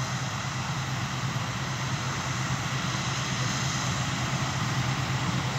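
Claas Lexion combine harvester running steadily as it harvests, a continuous engine and machinery drone with a low hum.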